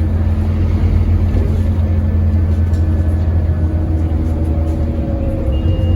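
Scania N230UD double-decker's diesel engine pulling under load, heard on board, its pitch rising slowly over the last few seconds as the bus gathers speed. A short high tone sounds near the end.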